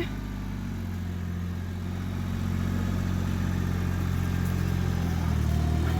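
Yanmar compact tractor's diesel engine running with a steady low hum that slowly grows louder.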